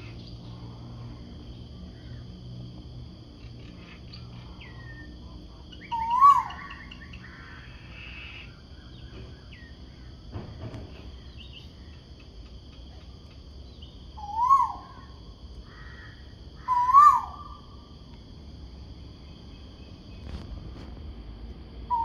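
A bird giving a loud 'ku-oo' call four times, each call a quick rise in pitch then a drop, several seconds apart. Fainter chirps of small birds, a steady high-pitched whine and a low hum run underneath.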